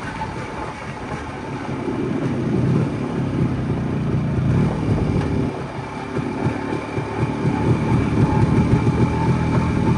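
Jawa 250/559 motorcycle's single-cylinder two-stroke engine running under way. It gets louder about two seconds in, eases briefly past the middle, then builds again toward the end.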